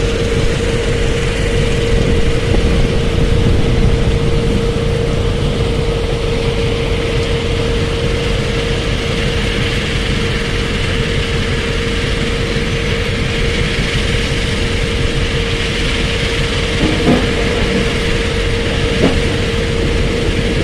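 Heavy diesel machinery engine running steadily under load with a constant whine, and two brief clanks near the end.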